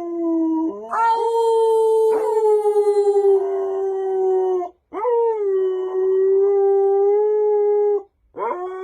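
Husky howling in long drawn-out notes, each lasting a few seconds, with short breaks between them and a brief warble in one. A new howl starts near the end.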